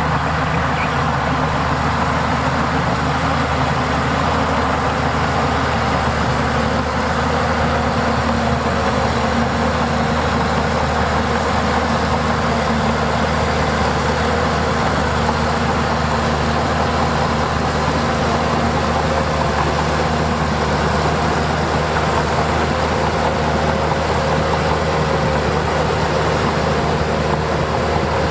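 Heavy diesel construction machinery engine running steadily at a constant speed.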